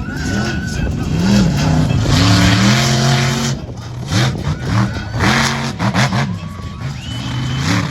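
Monster truck engine revving hard and repeatedly during a freestyle run, pitch climbing and dropping again and again, with louder full-throttle surges about two seconds in and again past the middle.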